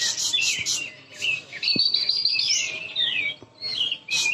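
Caged greater green leafbirds (cucak ijo) singing, several at once: quick overlapping whistles, gliding notes and rapid chattering trills with no pause.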